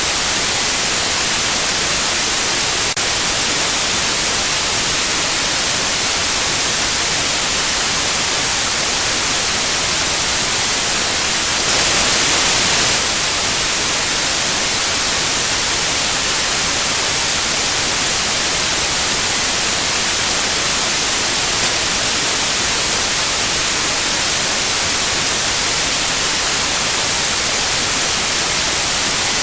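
Synthetic white noise with a steady high-pitched pure tone at 9645 Hz laid over it, a tinnitus-masking sound matched to a high tinnitus pitch. The noise swells slightly about twelve seconds in, and the tone drops out for a moment about two-thirds of the way through.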